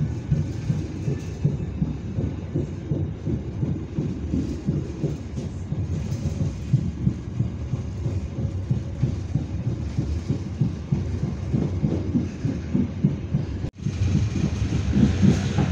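Passenger train carriage running along the track, heard from inside: a steady low rumble of wheels on rails with uneven rattling and knocks. Near the end it cuts out suddenly for a moment, then resumes sounding brighter.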